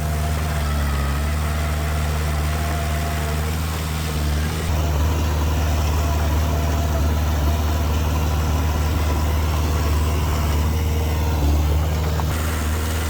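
Heavy machinery's diesel engine running steadily, its note shifting about a third of the way in and again near the end.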